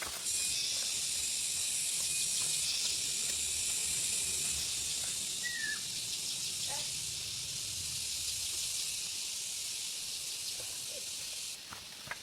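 A steady, high-pitched hiss that starts suddenly and cuts off suddenly near the end, with a brief bird chirp in the middle.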